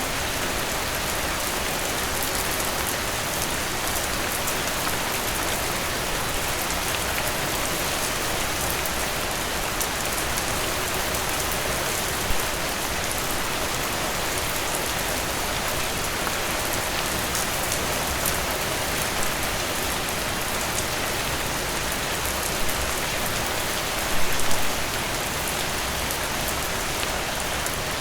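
Steady rain falling on a surface, an even hiss full of fine drop ticks. A louder tap about halfway through and a short cluster of louder drips near the end.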